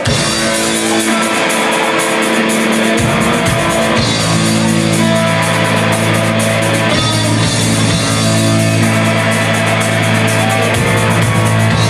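Live rock band playing with electric guitars and drum kit in a heavy metal style: the music starts abruptly, and heavy low notes come in about three seconds in.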